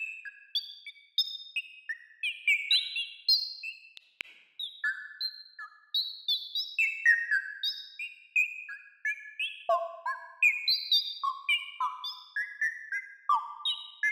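Synthesized bird-like chirps from the Esoteric Synth app's two-oscillator patch with random frequency control. Short, quickly falling chirps jump about in pitch, several a second, with a few lower ones near the end.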